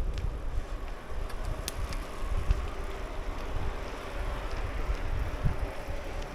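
Wind buffeting the microphone of a rider on a moving bicycle: a steady low rumble with a few faint clicks.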